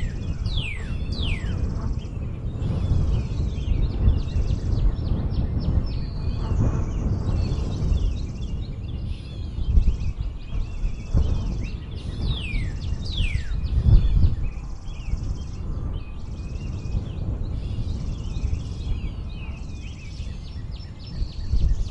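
Birds singing and calling in a spring outdoor chorus, with several sharply falling whistled notes near the start and again about halfway through. Underneath runs a loud, uneven low noise that swells and dips throughout.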